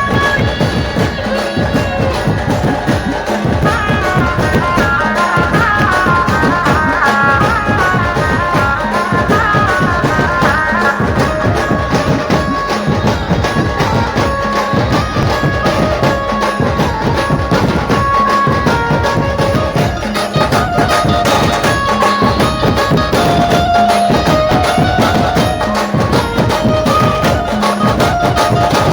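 Dhumal band music played loud: a dense, steady drum rhythm under a high melody line that moves in quick runs.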